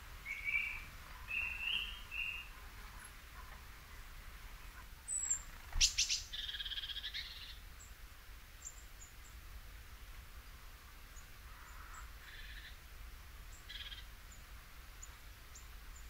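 Songbirds calling: three short whistled notes in the first couple of seconds, a sharp click about six seconds in followed by a buzzy, rattling phrase, then a few faint notes near the end.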